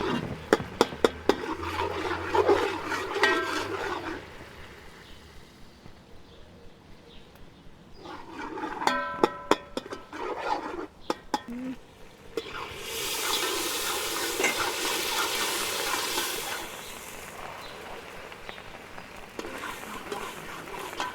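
Cooking in a pot over an open fire: a metal utensil knocking and scraping against the pot, with a stretch of loud sizzling hiss from about 13 to 17 seconds in.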